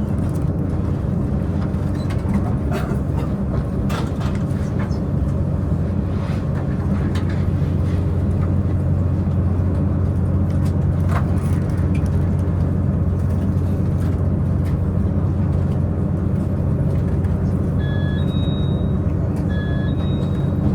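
Diesel engine of a diesel multiple-unit Tze-Chiang express running steadily, a continuous low drone heard from inside the passenger car, with scattered light clicks. Near the end come two short high beeps, about two seconds apart.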